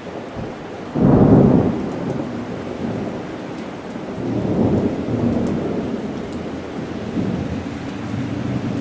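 Heavy rain falling steadily, with thunder rolling over it. A loud rumble breaks in suddenly about a second in and swells again about halfway through.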